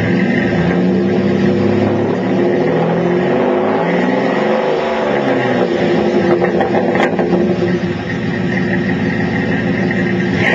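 2003 Dodge Ram 1500's 3.7L V6 running through a Flowmaster 40 series muffler, the exhaust note rising and falling in pitch several times as the engine is revved, then settling to a steadier note.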